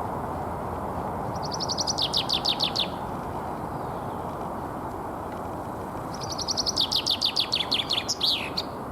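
Common chaffinch singing its spring territorial song twice, about four seconds apart. Each song is a fast run of repeated notes falling in pitch, and the second ends in a quick flourish. A steady low background rumble runs underneath.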